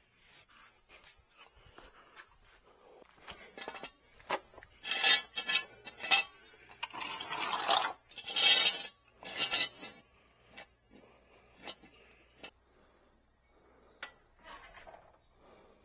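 Hard clinks, clicks and rattles of tools and parts being handled during car maintenance, with a spell of louder clattering in the middle.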